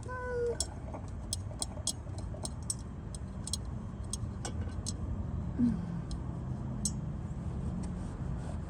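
Sparse, irregular metallic clicks of hand tools and screws as the underbody screws are taken out beneath a car, over a low steady rumble.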